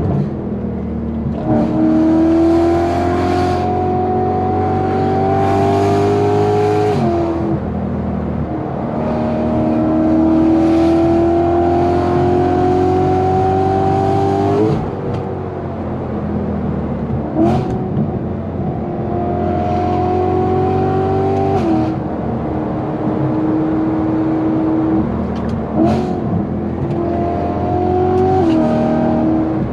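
BMW E90 M3's 4.0-litre V8 through a Valvetronic Designs titanium exhaust, accelerating hard in several long pulls, its note rising through the revs and then dropping suddenly, with two short sharp rev blips between pulls.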